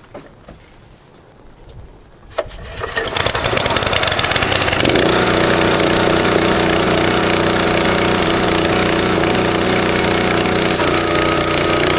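Gas engine of a pressure washer being started: after a moment of quiet there is a click, the engine catches about two and a half seconds in and then runs loud and steady, its note settling about five seconds in.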